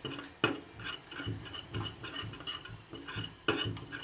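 A utensil stirring thick cocoa-milk pudding in a pot, scraping around the pan in a steady rhythm of about two strokes a second as the pudding finishes cooking with margarine melted in.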